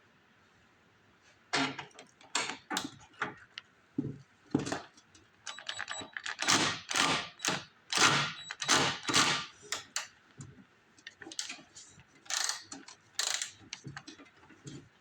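Metal hand tools clicking, clinking and rattling against the snowblower's engine parts as a hex wrench is worked on a carburetor mounting bolt. A quick run of sharp clicks starts about a second and a half in, is loudest in the middle and thins out toward the end.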